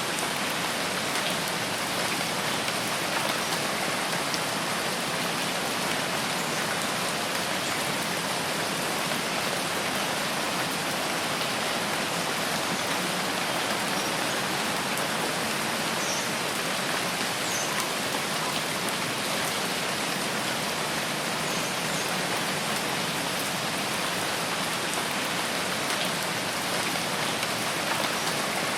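Steady rain falling in a forest, a dense even hiss of drops on leaves and ground that does not let up. A few faint, short high chirps sound through it midway.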